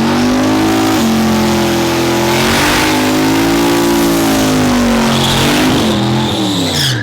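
A race truck's engine revving hard and held at high revs, the pitch swelling in the middle and then dropping away near the end.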